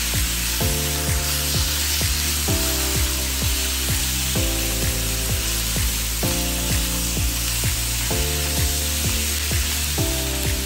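Chicken wings with onions and tomatoes sizzling in a wok as they are stirred and render their fat. This runs under background music with a steady beat.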